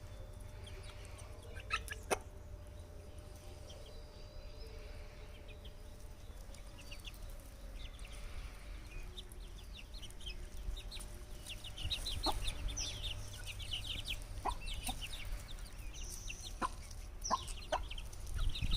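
Aseel chickens clucking, with many short high peeps that grow denser in the second half, over a steady low rumble.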